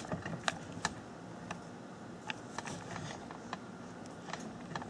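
Faint, irregular light clicks and taps of handling at the lathe, a dozen or so spread unevenly, over a low steady background hum.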